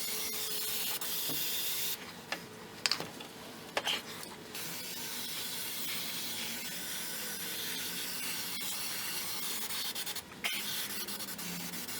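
Aerosol can of Fluid Film undercoating spraying in a steady hiss. It comes in long bursts, with a short break about two seconds in and another near the end.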